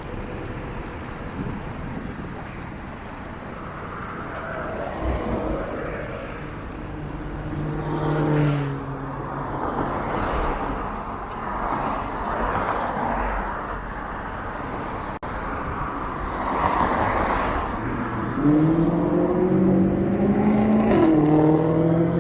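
Road traffic: motor vehicles passing one after another, their noise swelling and fading. One engine rises in pitch about eight seconds in, and another climbs and then holds steady near the end.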